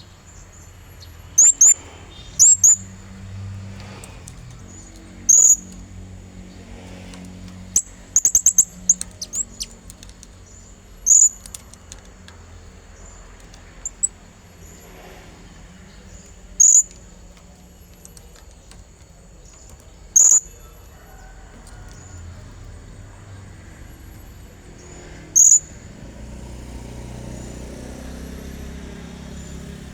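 Blue-crowned hanging parrot (serindit) giving short, sharp, very high chirps, singly every few seconds, with a quick run of about five about eight seconds in.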